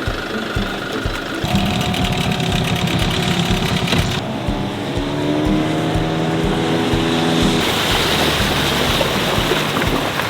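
Yamaha dinghy outboard motor running, its sound changing abruptly several times.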